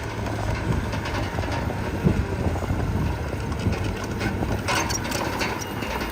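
Heavy diesel engine of earthmoving machinery running steadily with a low hum, with a short burst of clattering about five seconds in.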